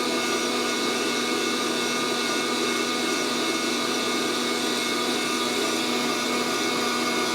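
Fresh Roast SR800 hot-air coffee roaster running steadily, a constant fan hum with no pops. The beans, about 350 °F at nine minutes, have not yet reached first crack.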